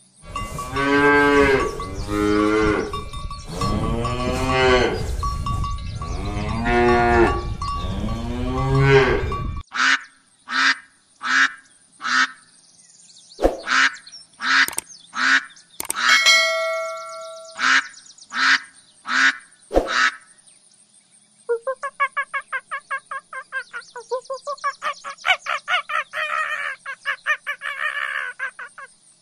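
A cow mooing four times in long, deep calls, then geese honking in short separate calls, then monkeys (macaques) calling in a fast run of short chattering cries.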